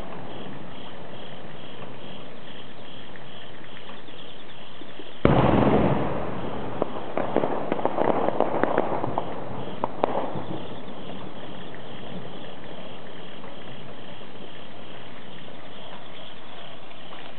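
Aerial fireworks: a shell bursts with a sudden loud boom about five seconds in, followed by several seconds of crackling pops, over a steady background hiss.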